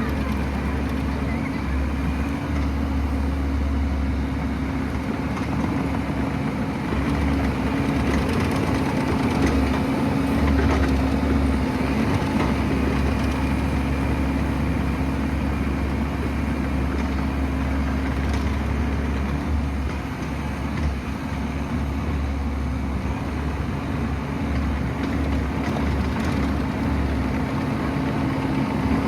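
Excavator's diesel engine running steadily, with a constant low hum and rumble.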